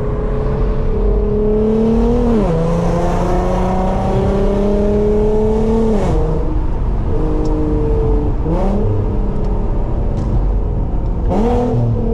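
Engine of a loud car with a manual gearbox, pulling under acceleration. Its pitch climbs slowly and falls sharply at gear changes about two and a half and six seconds in, then jumps up sharply near eight and a half and eleven and a half seconds in as the revs rise through downshifts.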